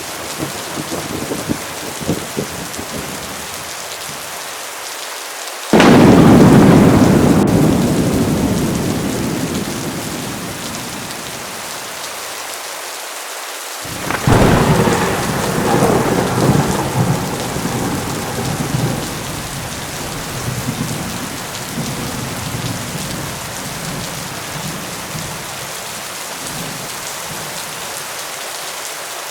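Steady heavy rain with two claps of thunder: the first cracks suddenly about six seconds in and rumbles away over several seconds, the second breaks about fourteen seconds in and rolls on more unevenly before fading back to the rain.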